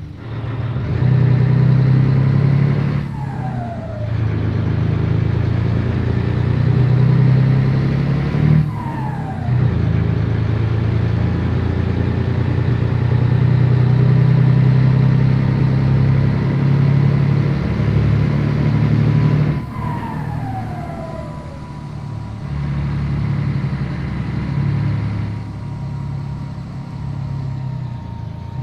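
Scania 113 truck's turbodiesel engine pulling under load. Its note drops out briefly three times, as the throttle lifts for gear changes, and each time a high whistle falls away.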